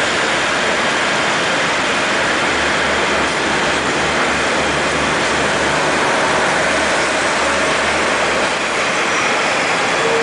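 Tze-Chiang express diesel multiple unit rolling slowly past on a shunting move: a steady rush of running noise with a low engine hum under it.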